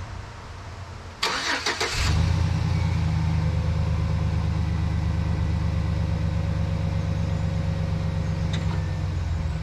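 A car engine is cranked by its starter, catches about two seconds in, and settles into a steady idle.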